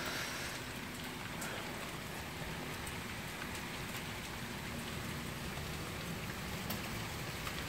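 Steady rain falling, an even hiss of drops with a few sharp drop ticks.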